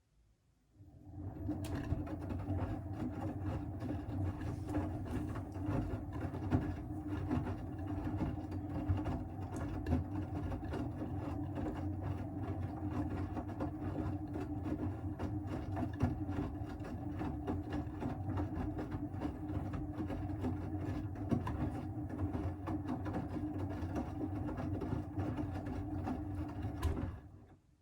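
Siemens WM14T490 washing machine's drum turning with a steady motor hum and a dense crackling grind, starting about a second in and stopping shortly before the end: the sign of failed drum bearings.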